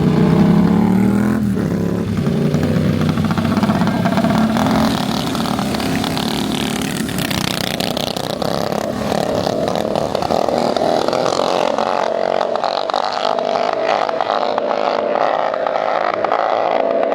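Mini bike engines revving and accelerating hard in a drag race, rising in pitch at the start. Over the second half they settle into a steady high engine note, with some clatter.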